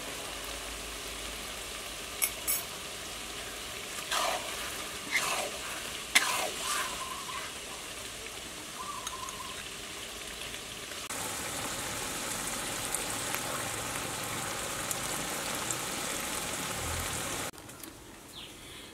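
Spicy pork dip (prahok ktiss) sizzling in a wok, with a metal ladle knocking and scraping against the pan several times in the first seven seconds. The sizzle gets louder and brighter about eleven seconds in and drops away near the end.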